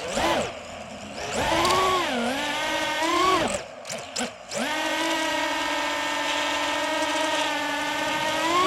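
DJI FPV drone's electric motors and propellers whining, the pitch rising and falling with throttle changes, cutting out briefly about four seconds in, then holding steady before rising again at the end.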